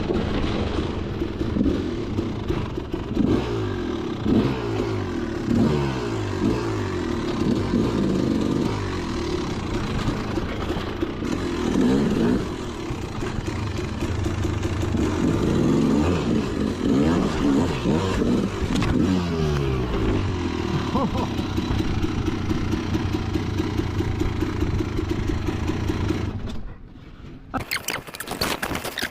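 Dirt-bike engine revving up and down again and again, with a few scrapes and clatters. It cuts off suddenly about 26 seconds in, and a different clicking, pattering noise follows near the end.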